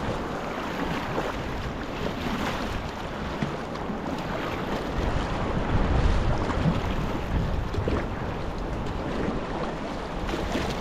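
Sea water splashing and washing around a sea kayak, with wind noise on the microphone.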